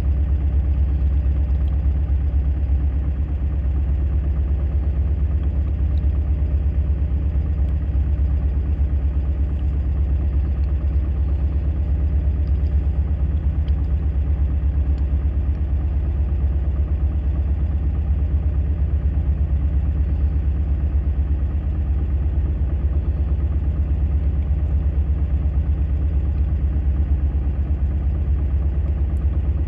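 A boat's engine running steadily: a low, even drone that holds the same level throughout.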